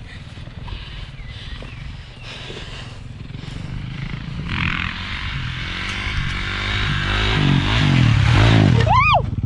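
Kawasaki KX450's single-cylinder four-stroke engine approaching and revving hard during a wheelie, growing steadily louder over several seconds. It cuts off sharply near the end, and a short shout follows.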